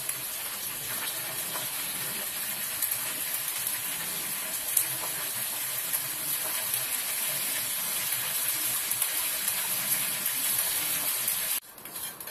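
Bean curd sticks frying in hot oil in a wok, a steady sizzling hiss with a few light taps of chopsticks turning them. The sizzle cuts off suddenly near the end, giving way to quieter knocks in the wok.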